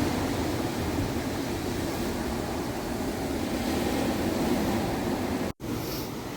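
Steady rush of wind and ocean surf with a low rumble, cutting out for an instant about five and a half seconds in.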